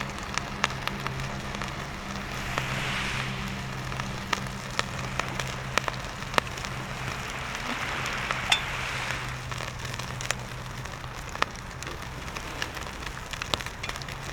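Wood bonfire crackling, with sharp pops every second or so over a steady hiss. A low steady hum sits underneath and fades out about ten seconds in.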